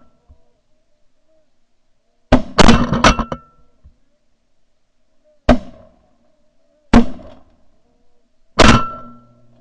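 Shotgun blasts from several hunters: a quick string of three shots a couple of seconds in, then three single shots spaced about a second and a half apart.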